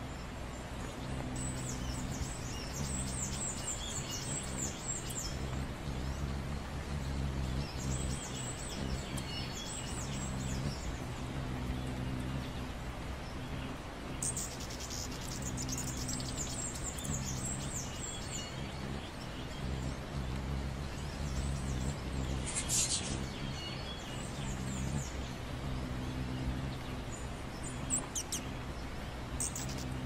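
High-pitched bird chirps and twitters in bursts every few seconds, over a steady low hum.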